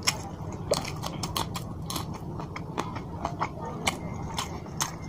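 Close-miked mouth sounds of a person eating rice and fish curry by hand: wet chewing and lip smacks, heard as a string of short, sharp clicks a few times a second over a steady low hum.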